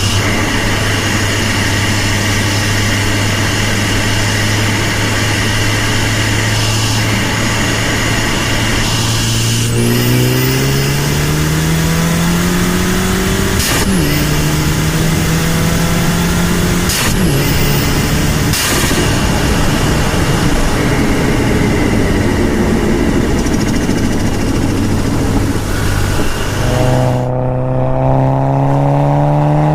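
Volkswagen Golf Mk6 GTI's turbocharged 2.0-litre four-cylinder engine, stage 2 tuned and decatted, under way. It holds a steady note, then rises under acceleration, breaks sharply at three quick gear changes, and climbs again under acceleration near the end.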